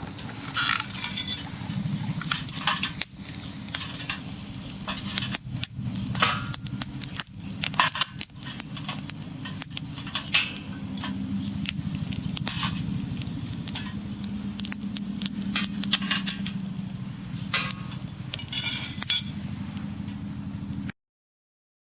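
Metal camp cookware clinking and rattling in irregular short clicks, over a steady low rumble.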